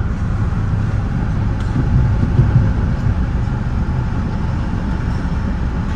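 Steady low rumble of a Metra bi-level commuter car running at speed on the rails, heard from inside the leading cab car.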